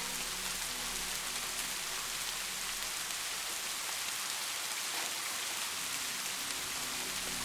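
Steady rainfall: an even hiss of many raindrops, with faint individual drop ticks scattered through it.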